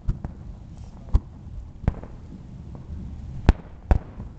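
Aerial fireworks shells bursting, about six sharp bangs: two close together at the start, single ones about one and two seconds in, and the loudest pair near the end.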